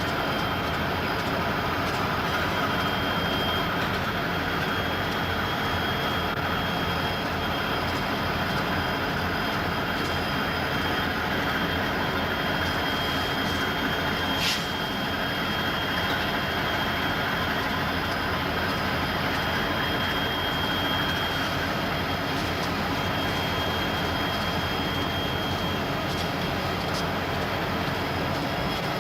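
Freight train rolling by with a steady rolling rumble and a thin, steady high-pitched squeal of wheels on rail, with one sharp click about halfway through.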